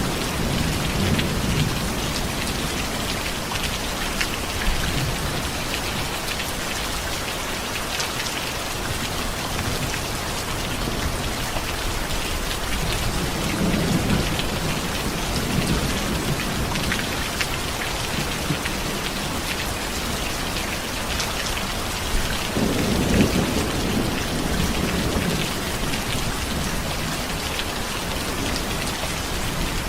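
Steady rain falling, with low rolls of thunder rumbling in three times: at the start, about halfway through, and again about three-quarters of the way in.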